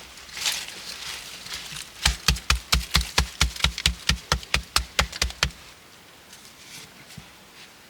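A fast, even run of about sixteen sharp knocks, roughly five a second, starting about two seconds in and lasting some three and a half seconds, after some rustling.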